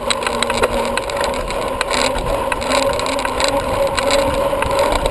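Steady rushing wind noise on the camera microphone of a bicycle in motion, with frequent short clicks and rattles from the bike.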